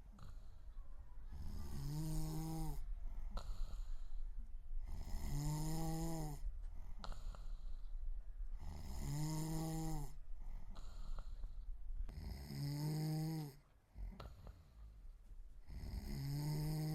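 A person snoring in a regular rhythm: five pitched, droning snores, each under a second long and about three and a half seconds apart, with breathy noise in between.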